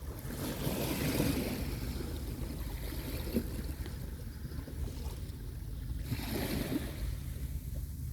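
Small waves washing onto a beach, two surges of water a few seconds apart over a steady low rumble.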